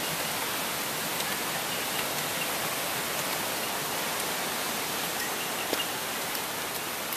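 Steady hiss of rain falling on the forest, with a few faint drip taps.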